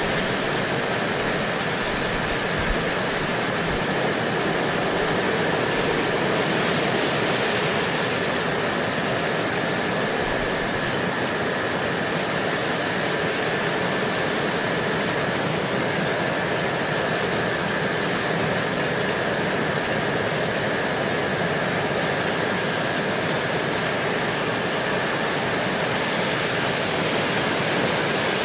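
Gentle, steady rain falling: an even hiss with no single drops standing out, and a thin steady high tone running through it.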